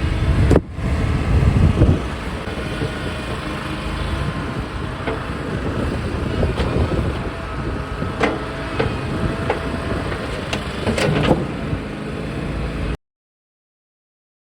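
Toro Dingo compact utility loader's engine running steadily, with scattered sharp clanks and knocks as it works on broken concrete. The sound cuts off abruptly near the end.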